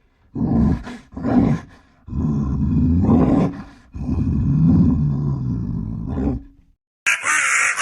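A large animal's low calls: two short ones, then two long ones of about two seconds each. About seven seconds in, a different, higher-pitched harsh call starts.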